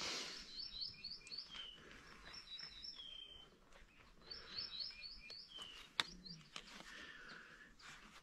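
Small birds chirping faintly: two runs of quick high chirps, with a few short falling whistles between them. A single sharp click about six seconds in.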